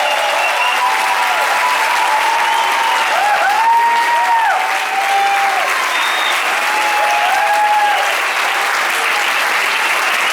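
Crowd applauding steadily, with cheering calls rising and falling over the clapping.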